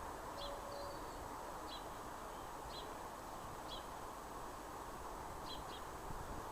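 A bird chirping repeatedly, short high chirps about once a second, some in pairs, over a steady background hiss.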